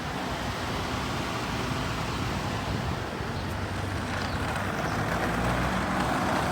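A car on the move: steady road and engine noise, growing a little louder toward the end.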